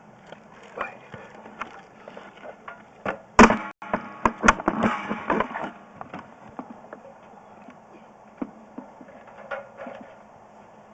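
Irregular knocks and clatter of equipment being moved and handled, with one sharp knock about three and a half seconds in followed by a burst of rattling.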